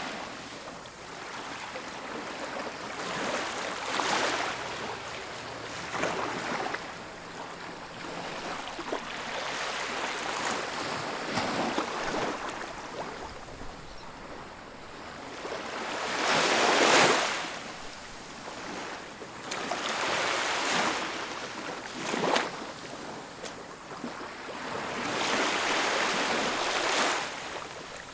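Ocean waves breaking and washing up on a beach, the surf swelling and falling away every few seconds, with one louder break about seventeen seconds in.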